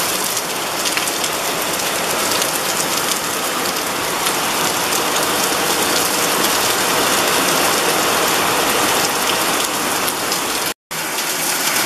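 Heavy downpour of large raindrops: a loud, even hiss made of dense individual drop hits. It cuts out for an instant near the end and carries straight on.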